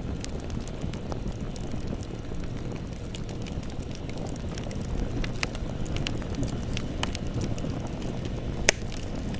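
Campfire burning: a steady low rumble of flames with scattered crackles and pops of burning wood, and one sharper, louder pop near the end.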